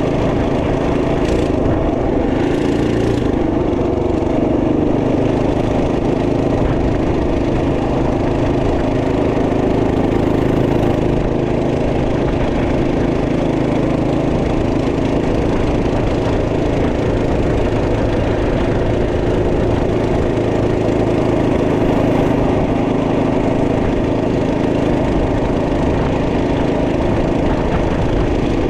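Single-cylinder 212cc Ace Up engine of a Trail Master MB200 minibike running steadily at a fairly constant speed.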